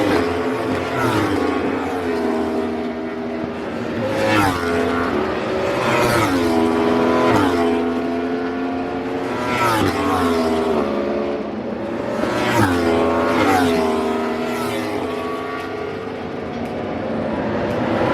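Several racing motorcycle engines on the circuit, revving hard, each pass dropping in pitch in short steps and then climbing again, repeating every few seconds.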